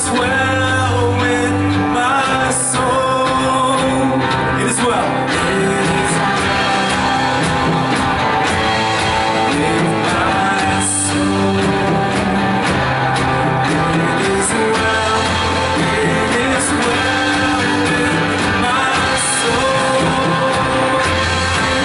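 Live worship band playing, with guitars and drums under sustained sung or hummed vocal lines that are too indistinct for the recogniser to make out as words.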